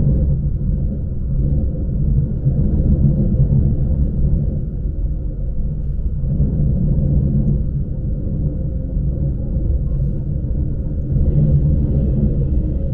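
Lastochka electric train running, heard from inside the carriage: a steady low rumble of the wheels and running gear on the track, rising and falling slightly, with a faint steady high whine above it.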